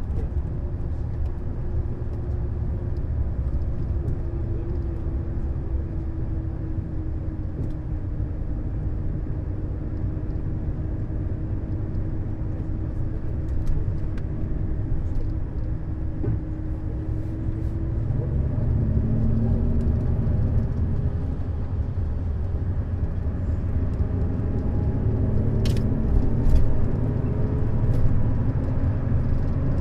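Neoplan Skyliner double-decker coach under way: a steady low rumble of engine and road noise. Over it runs a faint whine that slowly falls in pitch, then one that slowly rises in the second half. A couple of short clicks come near the end.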